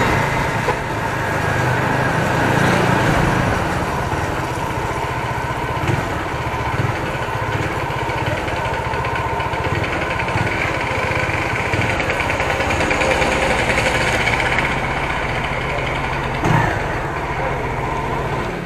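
Motorcycle engine running under way, with wind and road noise on the microphone. The sound is steady and cuts off suddenly at the very end.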